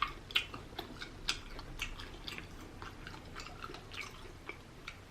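Close-miked chewing of rotisserie chicken: a run of short, irregular wet mouth clicks and smacks.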